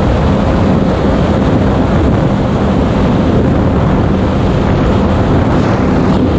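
Personal watercraft engine running steadily under way, with wind noise on the microphone and water rushing past.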